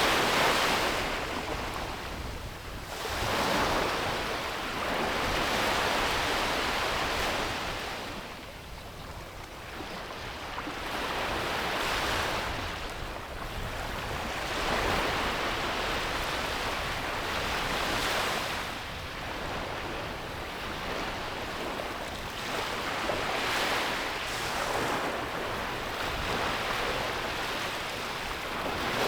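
Sea waves breaking and washing up a beach, the surf swelling and easing every few seconds, with some wind on the microphone.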